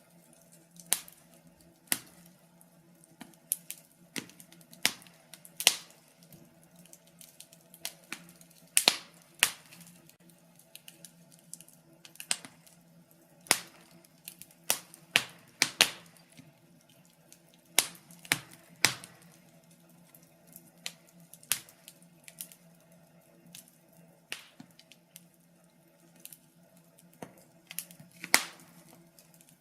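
Wood fire crackling in a fireplace: irregular sharp pops and snaps, a few every couple of seconds, with the loudest about nine, thirteen and a half, sixteen and twenty-eight seconds in, over a faint steady hum.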